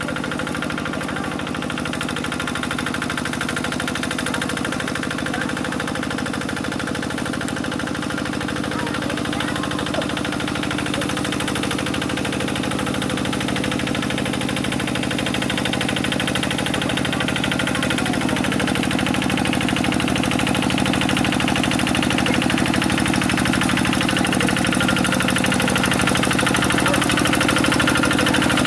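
Quick G1000 hand tractor's single-cylinder diesel engine running steadily while working through mud, growing a little louder toward the end.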